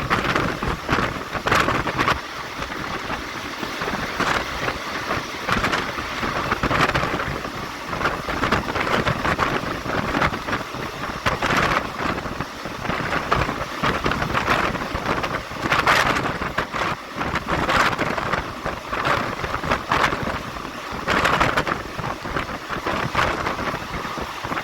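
Passenger train running at speed, heard from inside the carriage: a constant rush of wheel-on-rail noise and wind, rising and falling in uneven surges every second or two.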